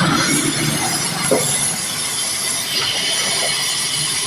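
Pressurised gas hissing steadily from a refrigeration hose or valve during refrigerant leak repair work.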